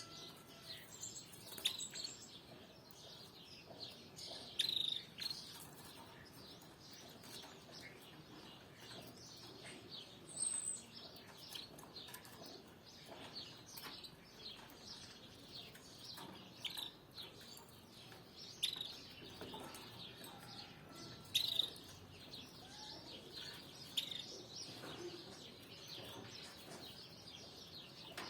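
Canaries chirping: many short, high chirps scattered throughout, with a few louder ones standing out over a faint hiss.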